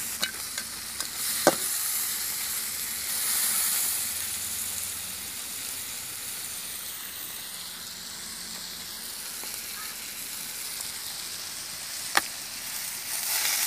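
Onions, tomatoes and curry leaves sizzling in oil in a black iron kadai over a wood fire, a steady hiss, with a ladle stirring and clinking against the pan about a second and a half in. A single sharp knock near the end as a knife chops into a green tender coconut.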